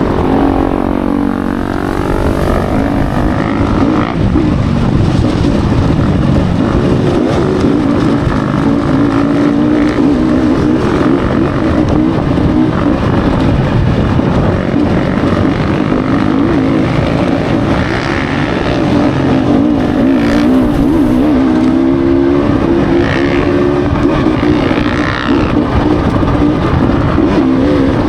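Dirt bike engine running under changing throttle, its pitch rising and falling as it rides. The pitch drops sharply in the first couple of seconds.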